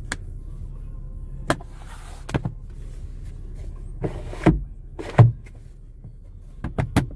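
A series of sharp clicks and knocks inside a car's cabin, the loudest about five seconds in, as the car's interior controls and trim are handled, over a steady low hum.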